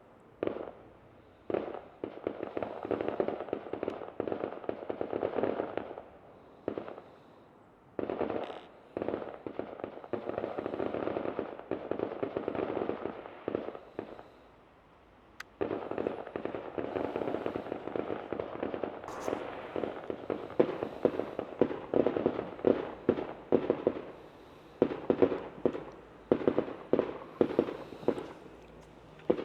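Fireworks crackling in long rapid stretches with short pauses between them, then a run of separate sharper bangs over the second half.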